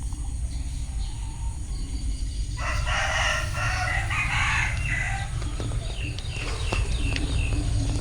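A bantam rooster crows once, a call about two and a half seconds long starting a little under three seconds in. Scattered clicks follow, over a steady low rumble.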